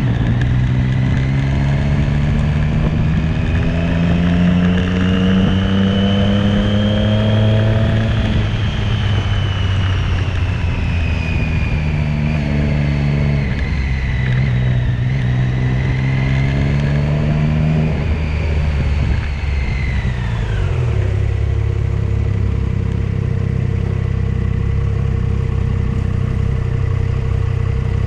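Motorcycle engine riding along, its pitch rising and falling as it speeds up and slows, with a high whine tracking the engine. About twenty seconds in it slows and settles into a steady idle.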